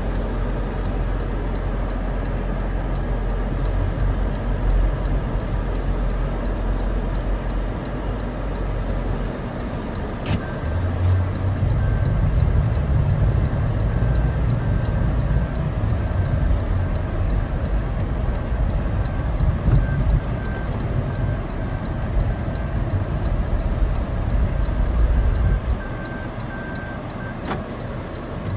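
Vehicle engine and wind rumble in blowing snow, swelling about ten seconds in after a click. A regular electronic beeping runs from then until another click near the end, when the rumble drops back.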